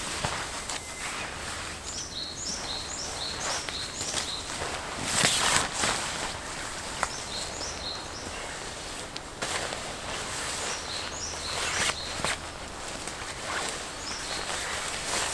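Woodland birds calling in short runs of quick high chirps, three times over, with intermittent rustling and knocks nearby; the loudest rustle comes about five seconds in.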